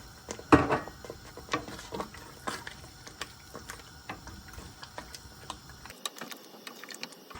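A spoon stirring a thick chicken and mushroom sauce in a pan on the hob: irregular clicks and taps against the pan, with one louder knock about half a second in.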